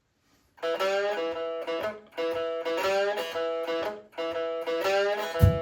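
One-string guitar playing a repeating blues riff, starting about half a second in, with notes that slide in pitch, three phrases of about a second and a half each. Low cajon thumps come in right at the end.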